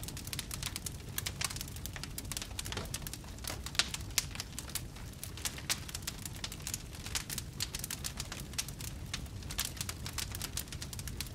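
Wood campfire crackling and popping: a dense, irregular run of sharp snaps over the steady low rumble of the flames.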